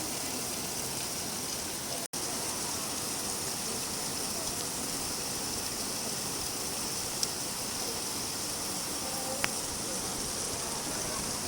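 Steady rain falling, an even hiss of water. The sound cuts out for an instant about two seconds in, and there are two faint single ticks later on.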